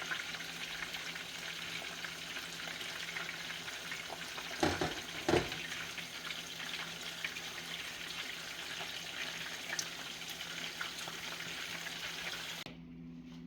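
Hot oil sizzling steadily as food fries in the pot, with a couple of brief louder sounds about five seconds in. The sizzle cuts off suddenly near the end.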